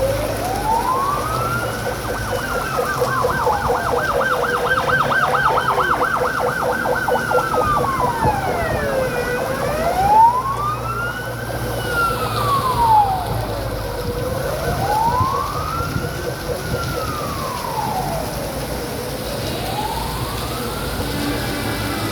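Emergency vehicle siren wailing, its pitch rising and falling slowly about every five seconds, with a fast warble over it for a few seconds near the start.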